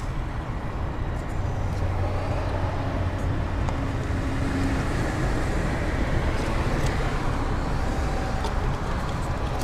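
Steady road traffic noise: a continuous rush with a low hum, swelling slightly near the middle as a vehicle goes past.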